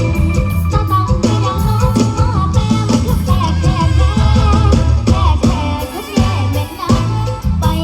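Live mor lam music: a band playing with a heavy bass and drum beat under a wavering, bending melody line.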